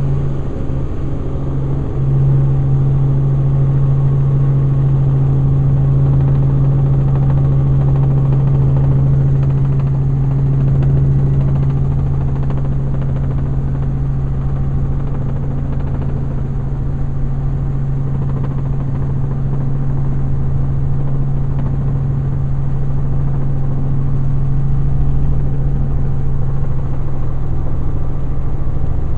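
Helicopter in flight: a steady engine-and-rotor drone with a strong low hum.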